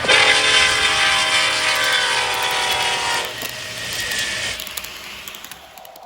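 An HO scale model locomotive's sound system blowing a multi-tone train horn for about three seconds. A fainter rumble follows and dies away.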